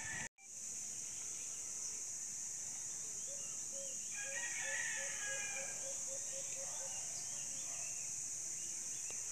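Rural outdoor ambience: a steady high insect drone with birds chirping. In the middle, a series of short, evenly repeated low notes comes about three a second for several seconds. The sound drops out briefly just after the start.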